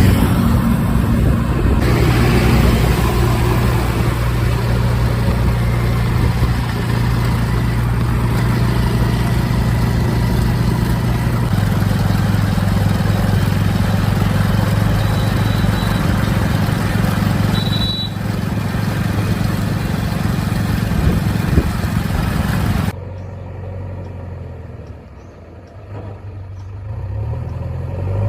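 Diesel engine of a JCB 3DX backhoe loader running steadily while loading, its pitch shifting slightly partway through. Near the end the sound drops abruptly to a lower level, then the engine builds up again.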